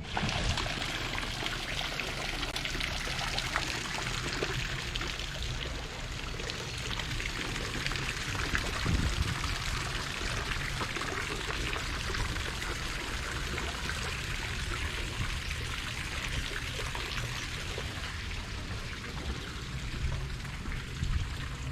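Water splashing steadily, as from a fountain, with a low rumble underneath. It starts suddenly and stays even.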